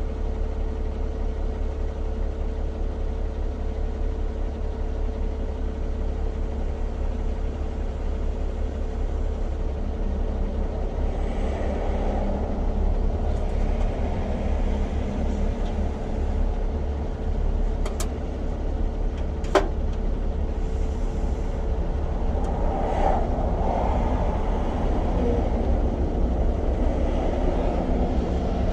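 Steady low rumble of an idling engine, with two sharp clicks about a second and a half apart in the second half.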